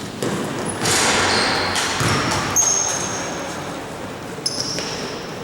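Game noise in a sports hall: the din of players and spectators, with short high squeaks of shoes on the court and a few knocks of the ball.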